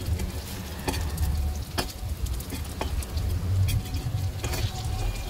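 Cutlets sizzling as they fry in hot oil in a kadai, with a metal spatula scraping and clicking against the pan a few times as they are turned, over a low rumble.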